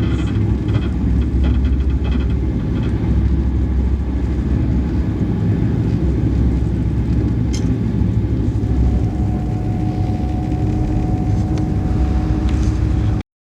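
Alfa Pendular (Pendolino) train running, a steady low rumble. A faint steady whine joins about nine seconds in, and the sound cuts off abruptly near the end.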